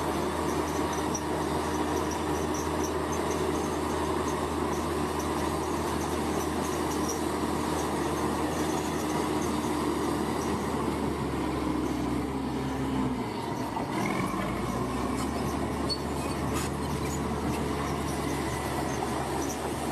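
A large diesel engine running steadily under load, dipping briefly in pitch about 13 seconds in, with insects chirping faintly over it.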